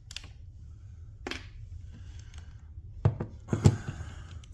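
A few short, scattered knocks and clicks over a low steady hum.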